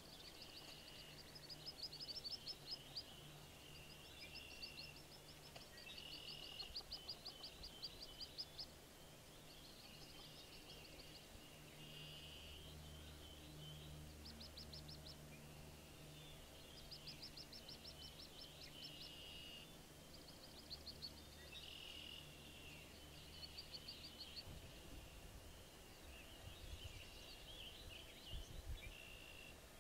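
Faint bird calls: bouts of rapid, high trilled notes, each about a second long, repeating every few seconds over a faint low hum.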